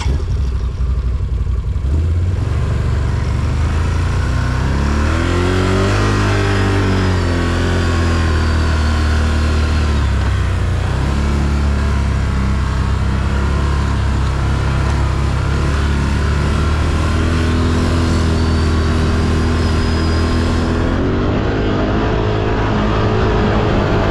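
ATV engine running under throttle, its pitch rising and falling as the rider works the throttle, at about 5 seconds in and again near the end.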